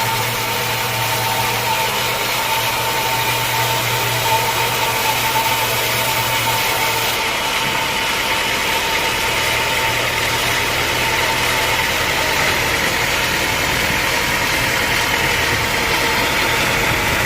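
Sawmill machinery running steadily, with a steady whine under a broad mechanical din. About seven seconds in, the high hiss and a low hum drop away while the machine noise carries on.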